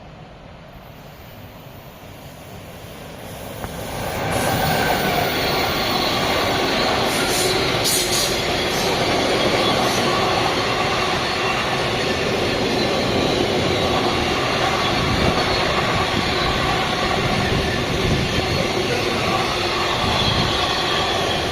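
A train passing at close range: its approach rises quickly about four seconds in to a loud, steady rush of wheels on rail, with a faint squeal of wheels on the track.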